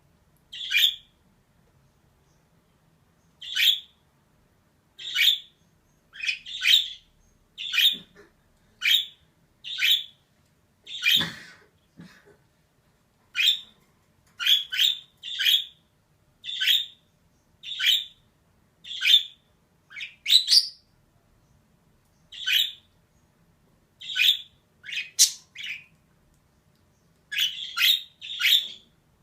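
Female budgerigar calling in short, sharp chirps, about one a second, some in quick pairs, with a few pauses of a second or two.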